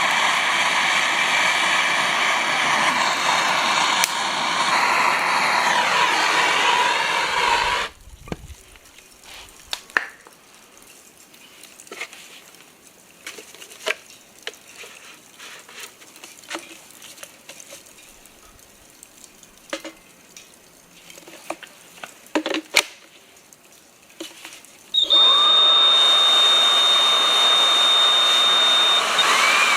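Cordless battery leaf blower running, cutting off after about eight seconds. A quieter stretch with scattered sharp clicks and pops follows, then the blower starts again about 25 seconds in with a high steady whine.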